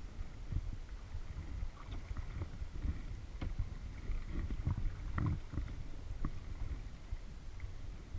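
Kayak paddling: a paddle dipping and splashing in the water with small irregular splashes and knocks, busiest in the middle, over a steady low rumble of water and wind on the camera.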